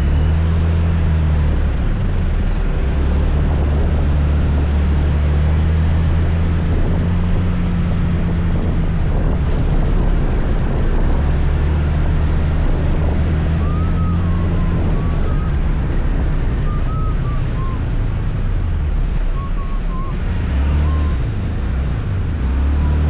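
Motor scooter engine running while riding, its note rising and falling with the throttle, under wind and road noise.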